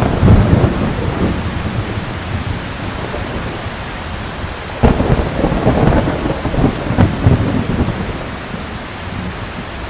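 Heavy rain falling steadily while thunder rumbles: one peal dies away in the first second or so, then a sharp crack about five seconds in rolls on for roughly three seconds before fading back to the rain.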